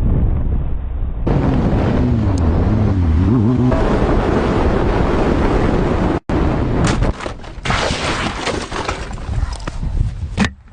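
Loud vehicle noise with heavy rumble: an engine note wavers up and down in the first few seconds, then, after an abrupt cut, a string of sharp knocks and bangs.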